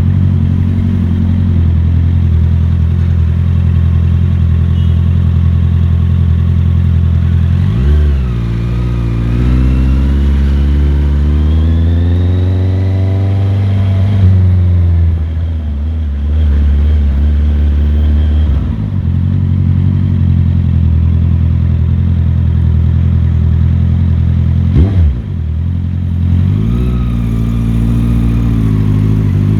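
Motorcycle engine running under way, a steady low drone that climbs in pitch as the rider accelerates and drops back at each gear change, several times over. A brief sharp rev blip comes near the end.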